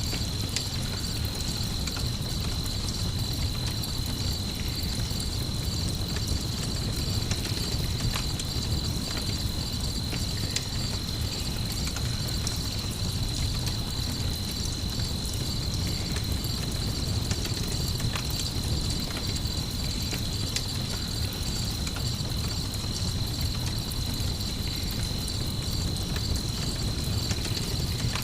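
Crickets chirping steadily in a continuous high trill, over the low rumble and scattered small crackles of a campfire.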